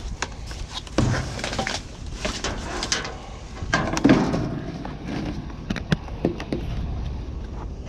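Scattered knocks, rustles and clatter of junk being handled and rummaged through, with a louder knock about four seconds in.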